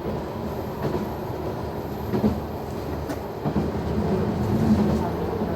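Noto Railway NT100 diesel railcar running along the line, heard from inside the car: a steady engine and running drone, with a few sharp clacks of the wheels over rail joints.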